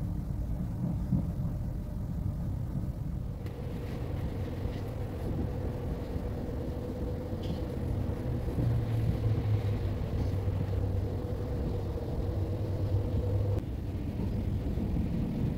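Low rumble of a moving passenger train heard from inside the carriage. A steady hum joins the rumble a few seconds in and stops near the end.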